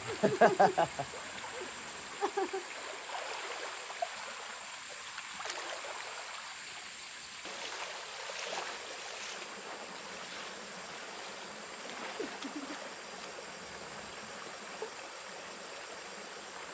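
Mountain stream flowing, a steady rush of water, with a constant high insect drone over it.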